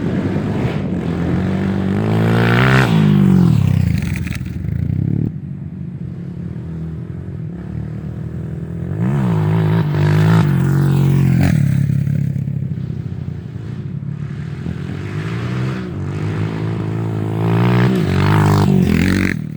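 Off-road trail motorcycle engines revving, rising and falling in pitch in three loud surges, about two seconds in, in the middle and near the end, with steadier running between.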